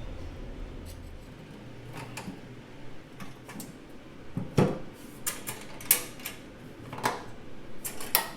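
Irregular clicks and light knocks from the 18-gauge steel toolbox and its hardware being handled and fitted together, with a few sharper knocks in the second half. A low hum under it stops after about a second.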